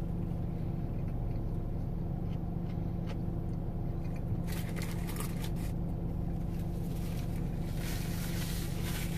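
Steady low hum of a car's idling engine, heard inside the cabin. Brief rustling about four and a half seconds in, and a paper napkin rustling against the mouth near the end.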